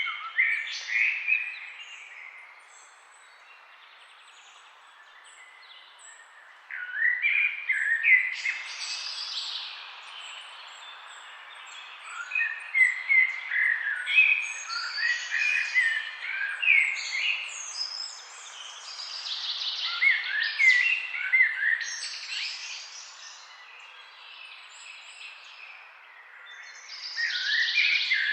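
Songbirds chirping and singing in quick overlapping phrases, in bouts with a quieter gap about two to six seconds in, over a faint steady background hiss.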